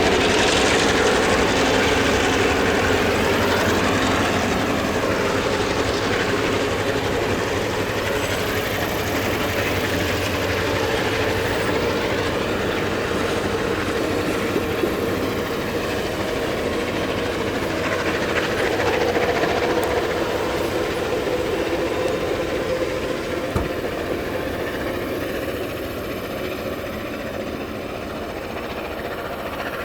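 Train rolling past on the track, a dense rumble of wheels and cars that slowly fades.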